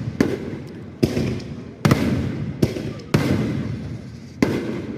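Fireworks going off: about six loud bangs, roughly a second apart, each followed by a rumbling echo that dies away.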